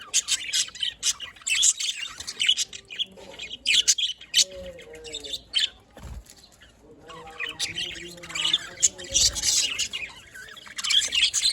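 Several budgerigars chirping and chattering in quick, high, overlapping notes, with a few lower warbles and a couple of dull bumps mixed in.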